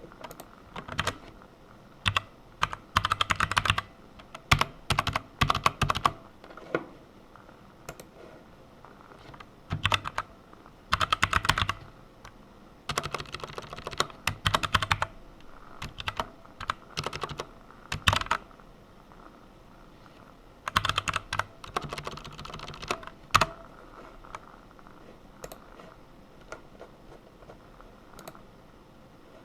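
Typing on a computer keyboard: short bursts of rapid keystrokes with pauses of a second or two between them, and a longer pause near the end.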